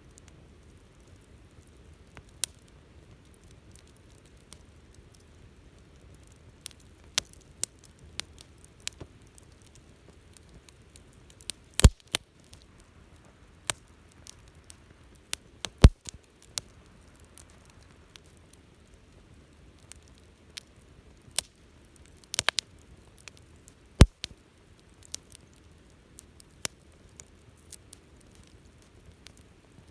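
Wood campfire crackling: scattered sharp pops and snaps at irregular intervals over a faint low hiss, with a few louder snaps about 12, 16 and 24 seconds in.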